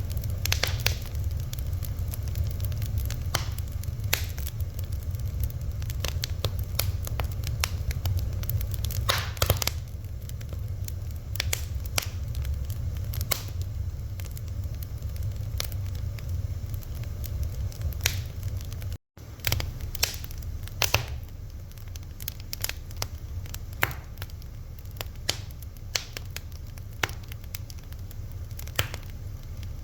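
Fire crackling, with irregular sharp pops and snaps over a steady low rumble. The sound drops out completely for an instant about two-thirds of the way through.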